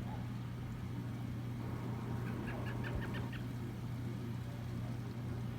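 A bird calling in a quick run of about eight short chirps, starting about two seconds in, over a steady low hum.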